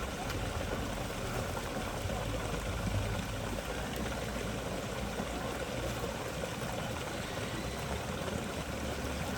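Steady rushing of a forest waterfall, an even wash of water noise with no breaks.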